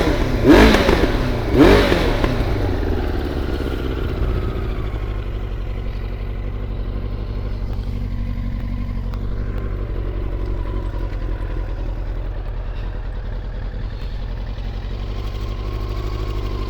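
1999 Yamaha YZF-R1's inline-four engine revved in two quick throttle blips, then settling into a steady idle.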